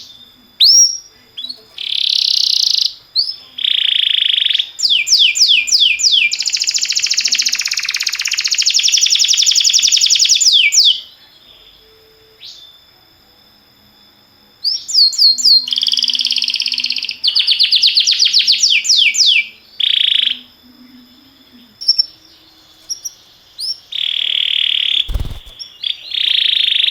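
Domestic canary singing in bursts of fast trills and rapid repeated high notes, with a pause of a few seconds midway.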